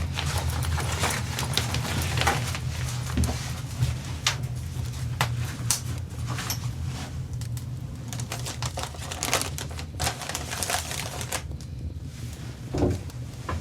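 Irregular sharp clicks and crackles, a few a second, over a steady low hum.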